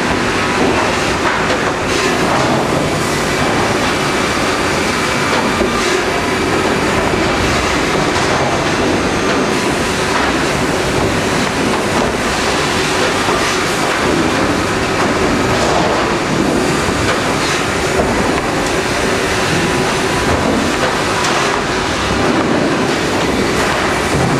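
Sawmill line for pallet boards running, a steady loud machinery din with continual clattering.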